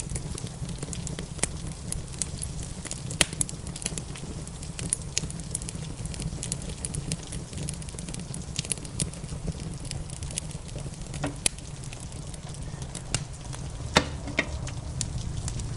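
Wood fire crackling with many small snaps and scattered sharper pops, the loudest about three seconds in and near the end, over a steady low rumble.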